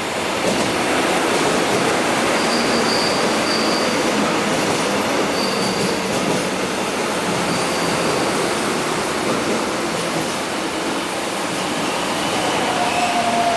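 Korail Class 341000 electric multiple unit running on the track, a steady rumble of wheels on rail with faint, brief high wheel squeals. Near the end its GTO-VVVF traction inverter whine sets in, falling slowly in pitch.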